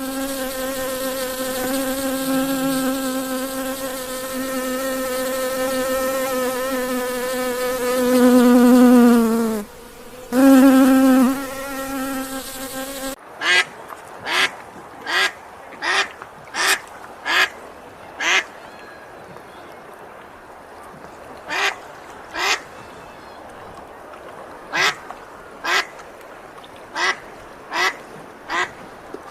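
A steady, high buzz like that of a flying insect, dipping in pitch and breaking off briefly near the middle. Then a string of short duck quacks in two quick runs.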